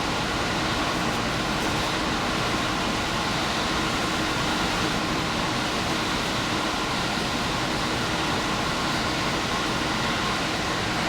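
Diesel express train running steadily at speed, heard from inside the train: a constant rumble of wheels on rail and running noise with a faint high hum and no distinct clicks or changes.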